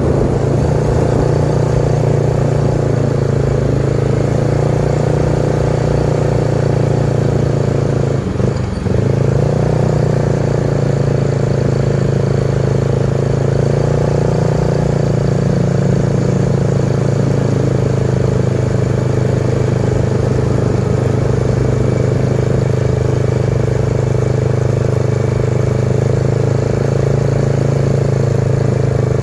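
Medium truck engine running steadily under way, with one brief dip in loudness and pitch about eight and a half seconds in.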